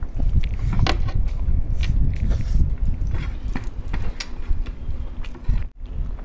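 A person chewing a mouthful of masala rice close to the microphone, with many small wet mouth clicks, and a short break near the end.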